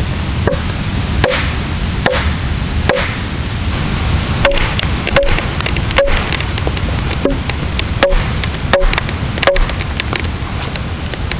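Ushkuy axe chopping into a log, a sharp knock with a short ring roughly every three-quarters of a second, pausing briefly about a third of the way in, over a steady low rushing noise.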